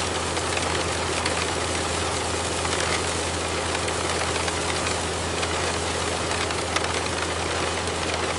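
Miniature diesel engine running steadily at idle with a fast, even knocking chatter over a low hum.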